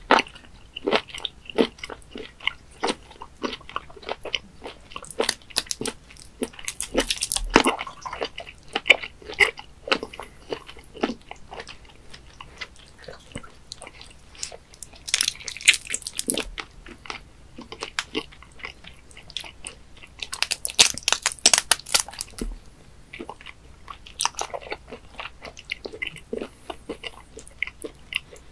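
Close-miked chewing and wet mouth clicks as a whole raw webfoot octopus is eaten. Three louder, noisier spells of wet smacking come about a quarter, half and three-quarters of the way through.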